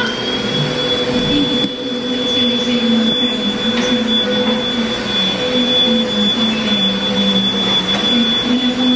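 Deerma cordless stick vacuum cleaner running, reaching full speed right at the start and then holding a steady high whine over its motor and airflow noise.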